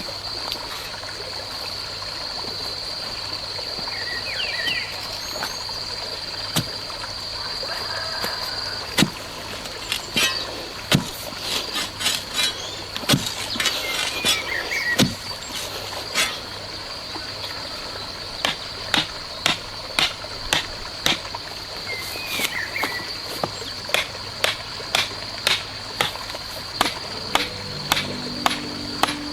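Steady high insect drone with a few short bird chirps. In the second half comes a regular series of sharp knocks, about one and a half a second.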